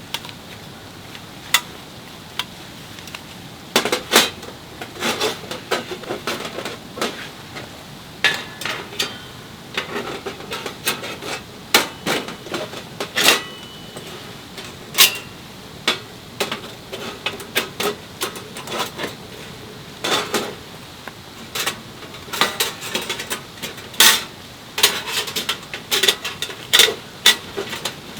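Cookware and utensils clinking and knocking irregularly: many sharp taps and clatters, a few louder knocks, over a steady background hiss.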